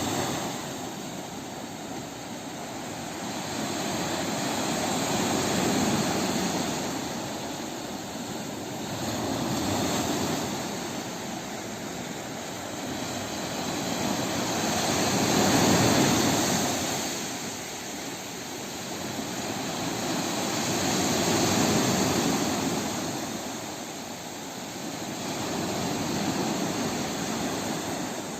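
Sea waves washing in, a rushing surf that swells and fades every four to six seconds.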